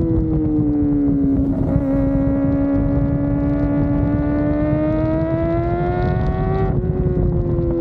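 Kawasaki ZX-4RR's 399 cc inline-four engine pulling under load on the move, its note climbing slowly. There is a break near the end where the pitch steps down, as at a gear change. Low wind and road rush runs underneath.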